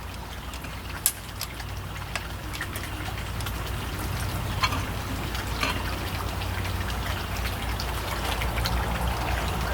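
Steady low hum under a hiss, with a few light clicks about one, four and a half and five and a half seconds in.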